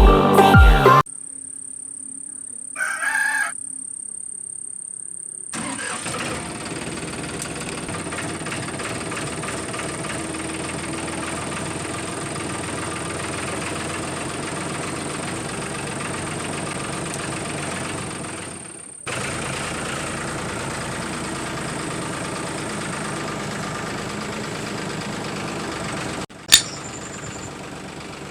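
A small electric motor running steadily, breaking off for a moment about two-thirds of the way through. A sharp click comes near the end.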